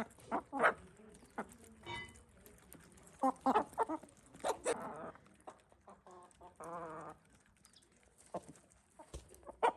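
Chickens clucking in short scattered bursts, with one longer call about seven seconds in.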